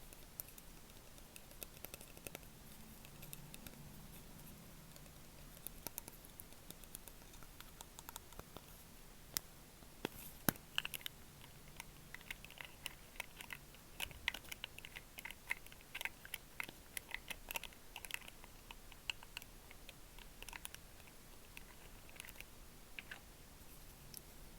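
Light, irregular tapping and clicking close to the microphone, like fingertips or nails on a hard object. It is busiest in the middle, with a few sharper snaps a little before it.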